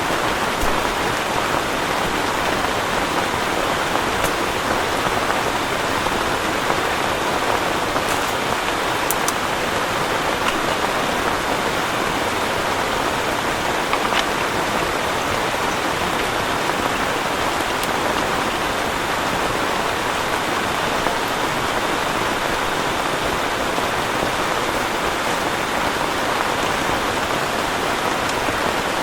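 Heavy rain falling steadily, with a few sharper drop ticks.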